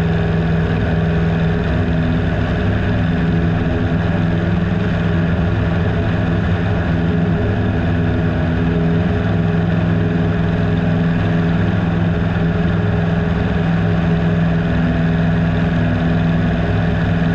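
1979 Piper Super Cub PA-18-150's 150-horsepower four-cylinder Lycoming engine and propeller droning steadily in flight at constant power, heard from inside the cockpit.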